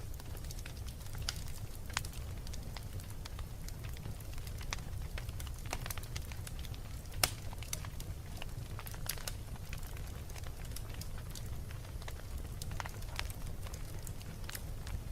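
Wood fire burning in a fireplace: irregular crackles and pops over a steady low rumble of the flames, with one louder pop about seven seconds in.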